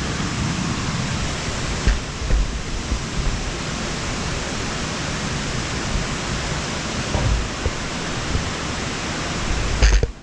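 Rushing water of a mountain waterfall close by: a steady, loud hiss, with a few low bumps of the camera being handled during the climb. It drops away abruptly near the end.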